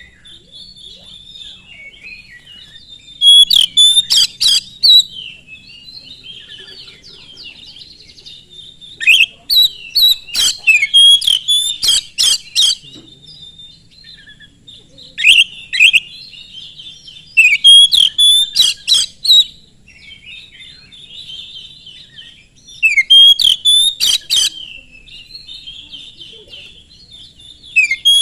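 Oriental magpie-robin singing hard: loud bursts of sharp, rapid notes every few seconds, each lasting a second or two, with softer twittering between them.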